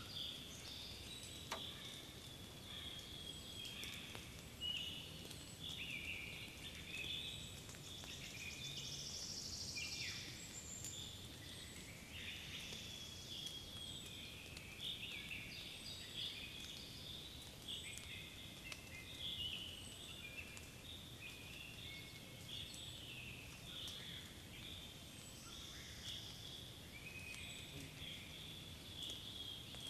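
Many small birds singing together in a spring forest: a continuous chorus of short chirps, trills and whistles over a faint steady background hiss.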